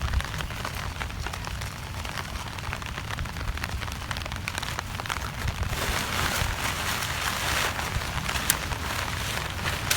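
Steady rain falling, a dense hiss of drops that grows heavier about six seconds in, with a single sharp tick near the end.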